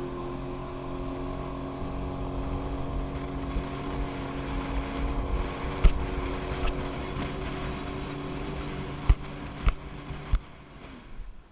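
Jet ski engine running at a steady pitch, with low rumble and wind on the microphone and a few sharp thumps; it cuts off about ten seconds in.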